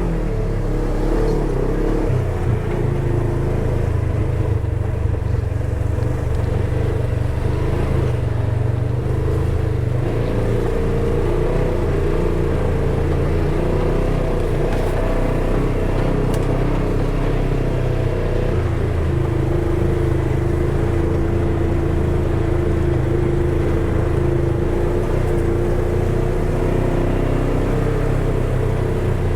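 Polaris side-by-side's engine running steadily while driving on a trail, its pitch shifting a little as speed changes.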